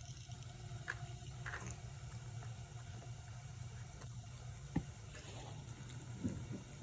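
Cats eating food, with faint wet chewing and lapping and a few small clicks, over a steady low hum.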